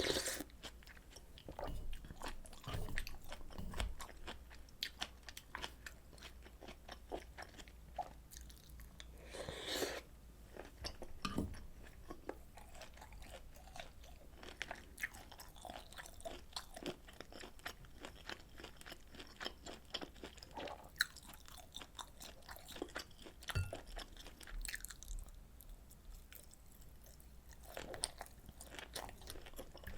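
Close-miked chewing and biting of food, with a steady run of small crisp clicks and crunches.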